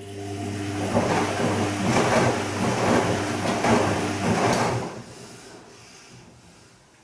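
Bosch Serie 2 VarioPerfect washing machine on its gentle silk wash: the drum motor hums while the drum turns, with water and laundry sloshing in repeated swishes. About five seconds in the motor stops and the sloshing dies away, as the drum rests between short turns.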